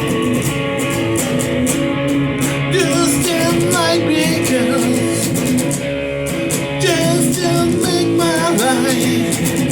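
A song: guitar strumming chords, with a singing voice gliding between notes in two phrases, about three seconds in and again from about seven seconds in.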